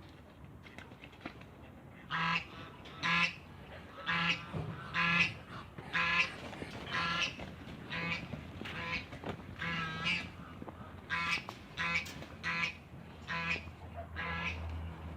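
Waterfowl calling over and over, short calls about one a second, starting a couple of seconds in.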